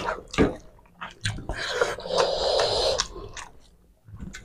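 Close-miked eating sounds of rice and curry eaten by hand: chewing and mouth noises, with a few sharp clicks in the first second and a longer noisy stretch in the middle.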